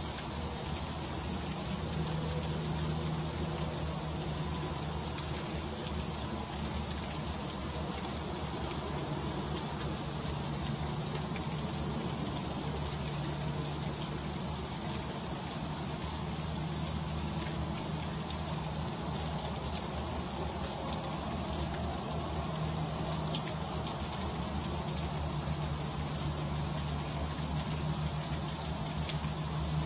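Freezing rain falling steadily: a dense, even hiss peppered with many fine ticks of drops striking surfaces.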